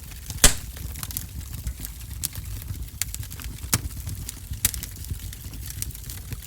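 Wood fire crackling in a wood-burning stove: irregular sharp pops over a low steady rumble, with one loud snap about half a second in.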